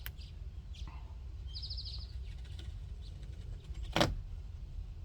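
A steady low hum, with a short high chirping trill about one and a half seconds in and a single sharp click about four seconds in.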